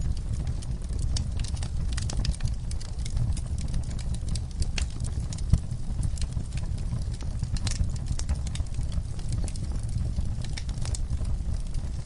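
Wood fire crackling: irregular sharp pops and snaps over a low steady rumble, with one louder pop about five and a half seconds in.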